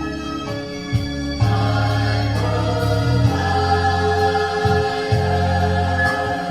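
Gospel choir singing over instrumental backing, with sustained chords and a steady bass line.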